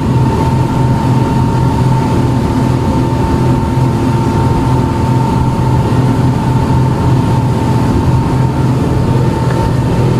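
Speedboat engine running steadily at speed, heard from on board: a constant low drone with a thin steady whine above it.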